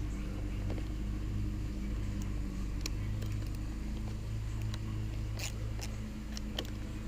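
A steady low hum, with a few faint clicks and taps about three and five and a half seconds in.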